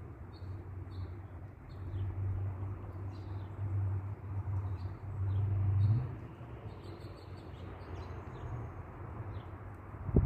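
Small birds chirping outdoors, short high chirps repeating every half second or so. Under them runs a steady low drone that cuts off about six seconds in.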